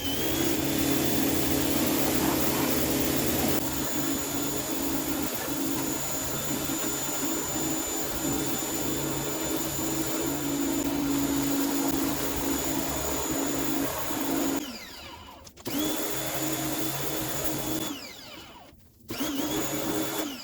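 A high-speed electric blower motor spins up with a rising whine and runs steadily. It is switched off about fifteen seconds in, then switched on again twice, each start bringing the same rising whine.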